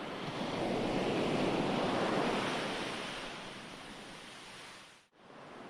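Ocean surf on a shore: a wave swells and slowly draws back. The sound cuts out almost completely for a moment about five seconds in, then comes back quieter.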